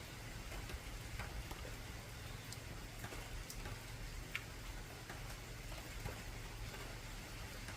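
Rain falling on an old corrugated zinc (tin) roof: a steady hiss with scattered single drops ticking sharply on the metal at irregular moments.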